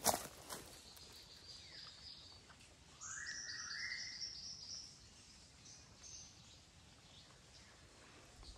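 Faint rainforest ambience: a bird call about three seconds in, rising in steps for about a second, over a faint high hiss of insects. A sharp click right at the start.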